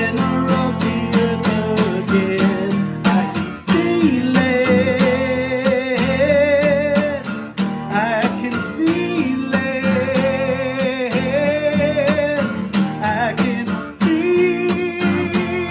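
Acoustic guitar strummed in a steady rhythm under long, held wordless sung notes with vibrato.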